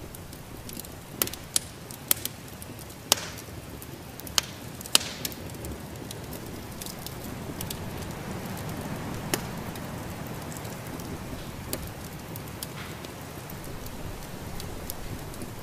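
Wood fire in a fireplace crackling, with several sharp pops scattered through the first ten seconds over a steady rushing hiss.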